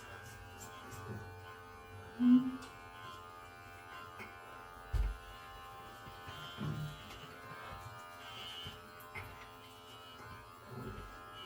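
Electric pet hair clipper buzzing steadily as it trims a cat's fur. A short, loud sound comes about two seconds in and a low thump about five seconds in.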